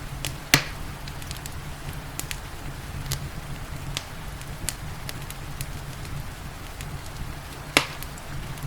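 Wood fire crackling with scattered sharp snaps and two loud pops, one about half a second in and one near the end, over a steady hiss of rain and a low rumble.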